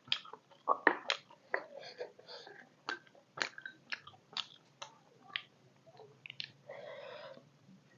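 Chewing a mouthful of beef momo close to the microphone: irregular sharp wet smacks and clicks, roughly one or two a second, with a short noisy rush near the end.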